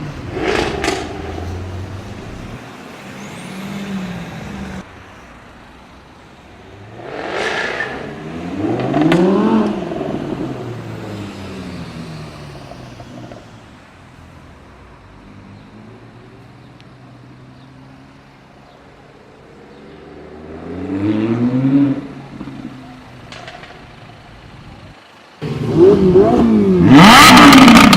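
Sports car engines revving and accelerating hard in several separate bursts, their pitch climbing and falling through the gears. The last burst, near the end, is the loudest, and a quieter engine rumble runs between the bursts.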